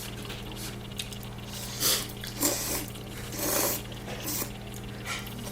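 Ramen noodles being slurped and eaten in several short noisy bursts over a steady low hum.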